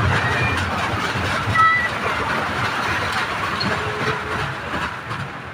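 Fairground ride running along its track: a steady rumble that slowly fades toward the end.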